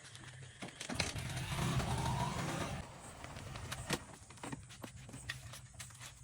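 A motor vehicle passing by for about two seconds, with a faint rising engine note, followed by scattered clicks and knocks.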